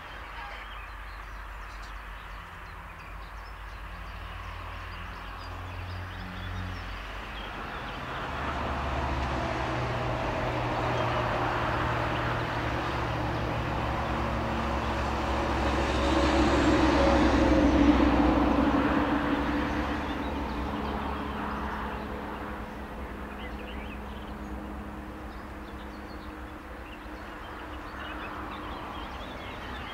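A train passing on the line, growing louder to a peak a little past halfway through and then fading away.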